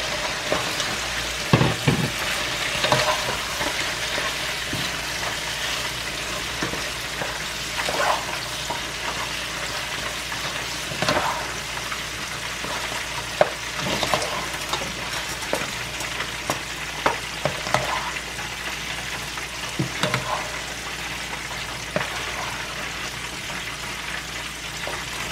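Chicken wings sizzling as they fry in oil in a pan, a steady hiss throughout. Over it, a metal spoon stirs thick, creamy pasta in a pot, scraping and knocking against the pot now and then.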